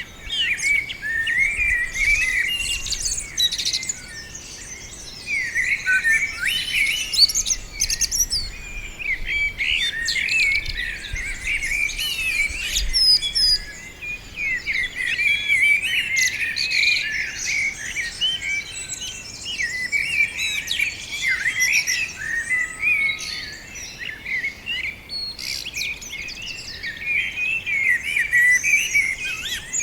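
A group of small songbirds chirping and twittering together, many short overlapping calls in a continuous chatter.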